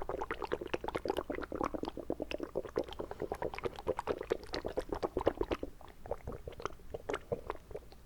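Close-miked wet mouth sounds: a rapid run of squelching clicks and pops of liquid moving in the mouth, dense at first and thinning to scattered pops after about five seconds.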